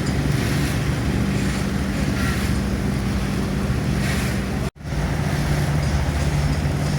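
Engine running steadily with a low hum and a rushing hiss. The sound cuts out for an instant about two-thirds of the way through, then resumes at a slightly different pitch.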